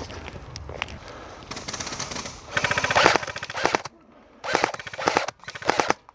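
Airsoft gun firing rapid full-auto bursts: a fainter run first, then a long loud burst about halfway through, then two shorter bursts near the end.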